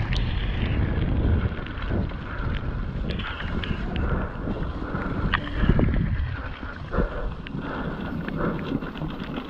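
Mountain bike riding on a wet, rough trail: wind buffeting the microphone over a steady rumble of tyres, with frequent short knocks and rattles from the bike over the ground.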